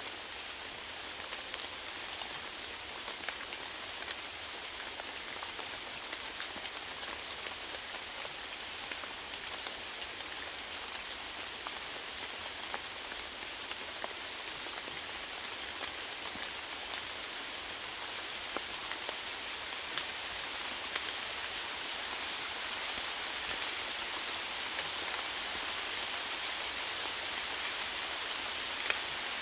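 Steady rainfall, an even hiss of rain on surfaces with scattered individual drops ticking through it, growing slightly louder toward the end.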